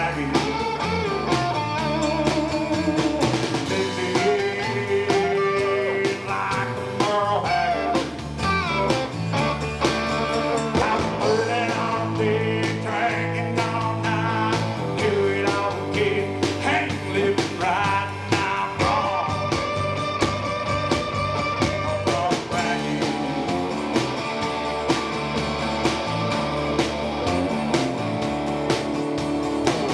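Live rock band playing: electric guitar lines over drums and bass, with a steady beat.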